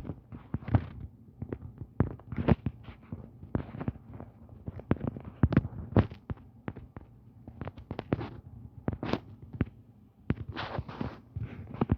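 Irregular sharp clicks and knocks, a few a second, with a brief rustling noise near the end.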